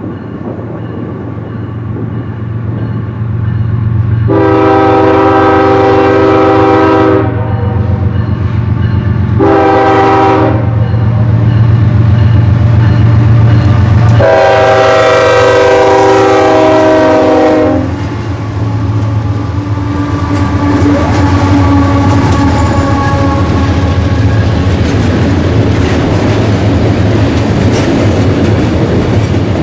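Freight train locomotive air horn sounding three blasts: a long one, a short one, then a long one, each a chord of several tones, over the steady rumble of the train. After the last blast the train runs by with a continuous wheel rumble and clickety-clack.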